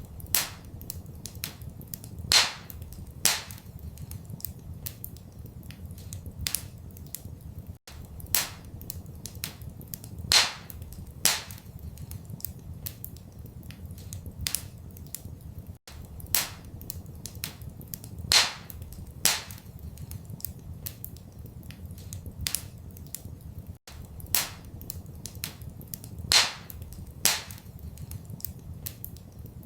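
Wood fire crackling, with frequent small clicks and a few sharp, loud pops over a low steady rumble. The same pattern of pops repeats about every eight seconds.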